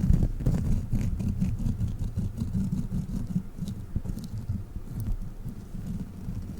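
Sticky crawler toy handled and squished by fingers close to the microphone. It makes a continuous low, dense handling noise with scattered faint sticky clicks.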